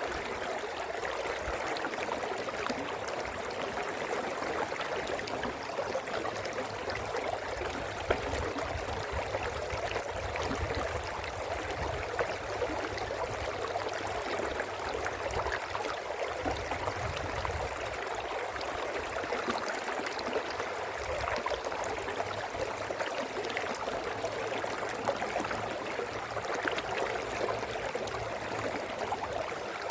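Brook water running and babbling over stones, a steady close-up trickling and gurgling.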